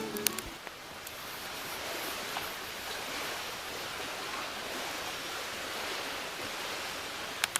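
A steady, even rushing noise of outdoor ambience, with no distinct events in it. A few faint clicks come near the start and near the end.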